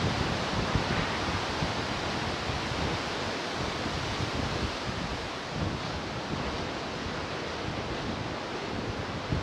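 Pacific surf washing ashore: a steady wash of breaking waves, swelling a little in the first few seconds and easing, with wind buffeting the microphone.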